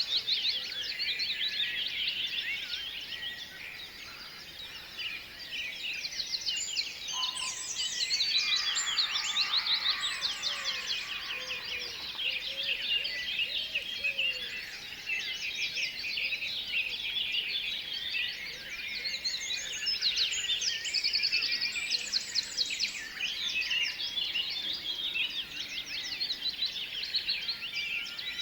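A dense chorus of many tropical birds chirping and calling at once, a continuous overlapping mass of rapid high-pitched chirps, trills and short whistled notes.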